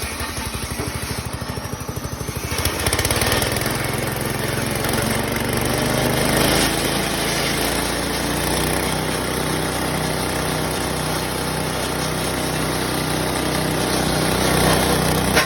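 Engine-driven forage chopper running. The engine picks up speed and gets louder about three seconds in, then runs steadily.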